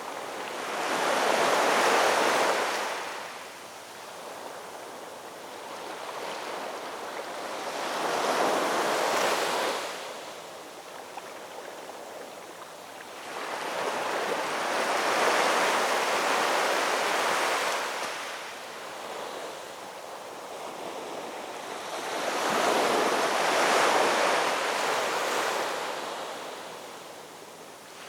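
Ocean waves breaking on a shore in slow surges, four swells of rushing surf about seven seconds apart, with a softer hiss of wash between them.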